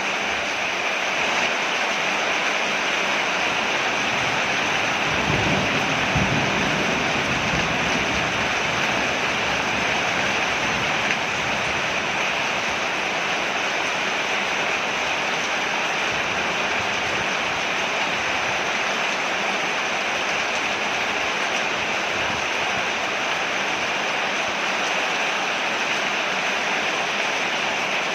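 Steady rain falling on a porch, an even hiss that does not let up, with a brief low rumble about five seconds in.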